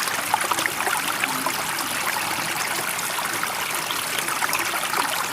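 Steady running water: an even rush with many small splashes, holding level throughout.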